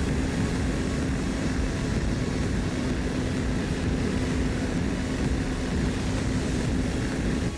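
KTM 390 Adventure's single-cylinder engine held at steady high revs during a top-speed run, under heavy wind rush on the microphone. The sound cuts off abruptly near the end.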